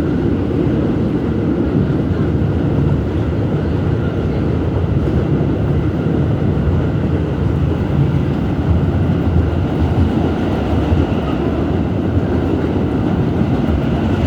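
Staten Island Railway R211S subway train running steadily between stations: an even rumble of wheels on the rails and running gear, heard from aboard the car.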